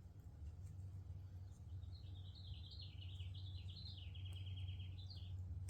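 A songbird sings a short warbling phrase of quick rising-and-falling notes, ending in a fast even trill, over a steady low hum.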